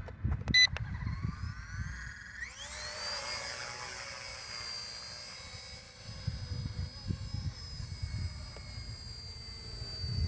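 Small helicopter's electric motor switched on with a click, its whine rising over about two seconds and then holding at a steady high pitch as the rotor spins up.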